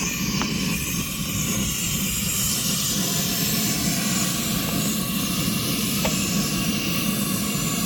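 Handheld gas torch flame running with a steady hiss as it lights the charcoal in a kamado grill.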